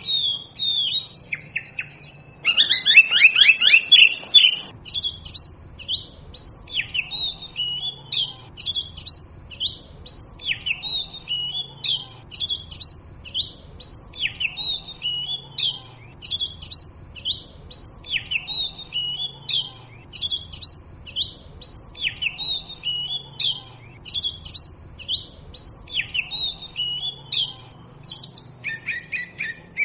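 Oriental magpie robin singing: a string of short, varied, high notes, several a second, with a louder rapid run of notes around three seconds in.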